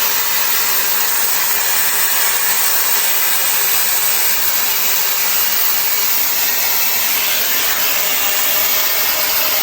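Shark FlexStyle air styler running, a loud, steady rush of blown air with no change in pitch or strength.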